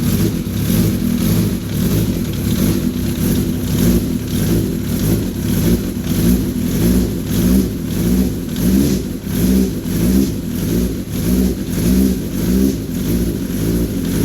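Freshly rebuilt big-bore engine on its first run, on choke, its revs rising and falling over and over as the throttle is worked. It settles into a steady even run right at the end.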